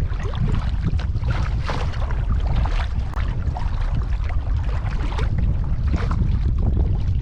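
Kayak paddle dipping and pulling through pond water in repeated strokes, a splashy swish roughly once a second, over a steady low rumble of wind on the microphone.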